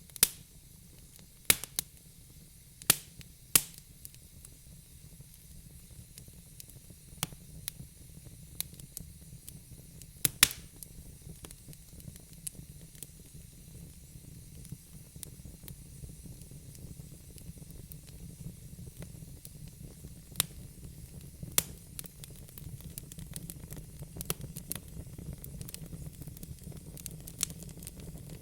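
Wood fire crackling in a fireplace: sharp pops at irregular intervals, the loudest about ten seconds in, over a low steady rumble of burning.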